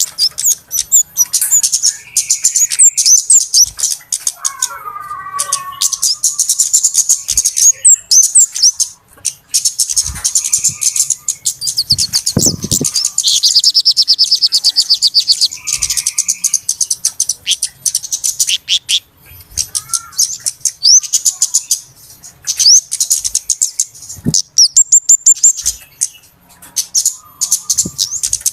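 Bird-lure recording of small birds, kemade and cabe-cabean (flowerpeckers), calling noisily: dense, rapid high-pitched chirps and ticks, overlapping from several birds, with a fast trill about halfway through.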